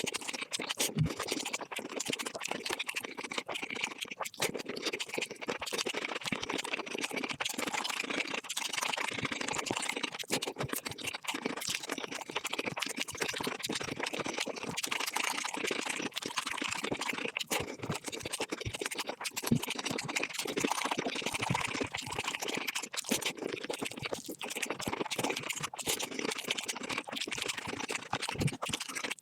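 Close-miked eating sounds of chicken being bitten and chewed, sped up five times so the crunches and mouth clicks run together into a dense, rapid crackle.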